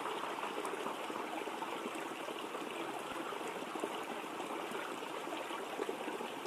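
Steady rush of water from a waterfall, an even unbroken noise.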